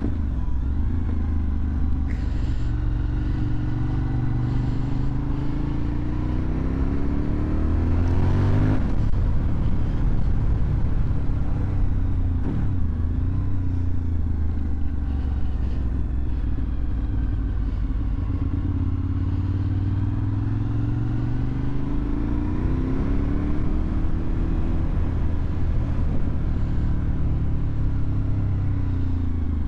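2001 Suzuki TL1000R's 996 cc V-twin engine running through a LeoVince aftermarket exhaust while being ridden. The engine note climbs under acceleration to a peak about eight or nine seconds in, then drops away; later it climbs again and falls back near the end.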